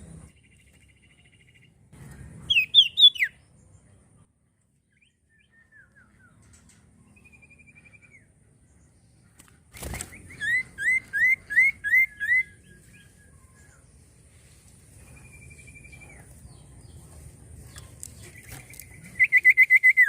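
Common iora (cipoh) singing: loud bursts of quick repeated chirps come three times, near the start, in the middle and at the end, with single thin drawn-out whistles in between. A sharp click comes just before the middle burst.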